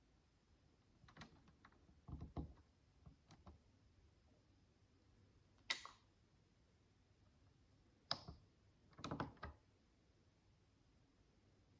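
Micro building bricks clicking and tapping on a hard surface in small irregular clusters as they are handled and pressed together. A single sharp click about six seconds in is the loudest.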